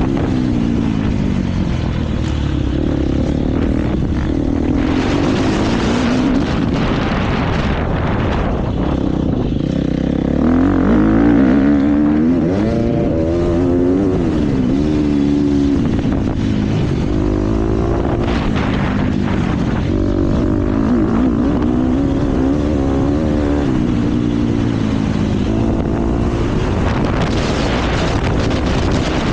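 KTM motocross bike's engine revving hard and easing off over and over, its pitch rising and falling as the rider works through the gears and the throttle, loudest about eleven seconds in.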